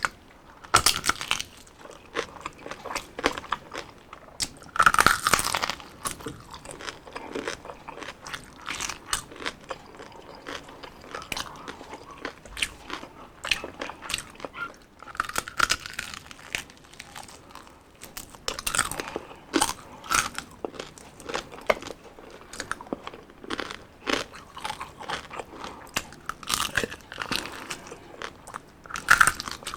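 Close-miked biting and chewing of deep-fried crispy food, crispy pata and crispy chicken skin: an irregular run of crunches, with several loud crunching bites standing out.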